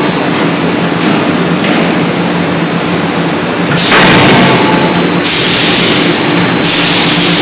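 Forging shop machinery around a CNC closed-die forging hammer, giving a loud continuous rushing noise with no separate blows standing out. The noise grows louder and brighter about four seconds in and shifts again a little later.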